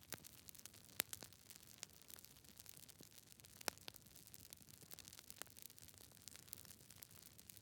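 Campfire crackling: a soft hiss of burning wood with scattered small ticks and pops, two sharper pops about a second in and near the middle.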